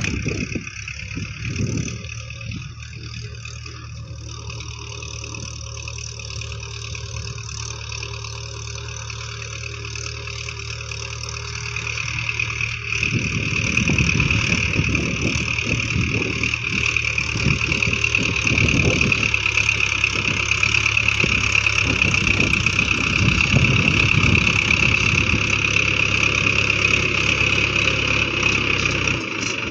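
Tractor engine running steadily, getting louder about halfway through.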